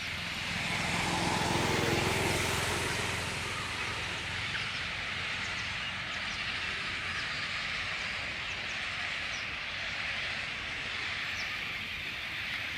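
Steady outdoor hiss, with a low rumble that swells and fades over the first few seconds.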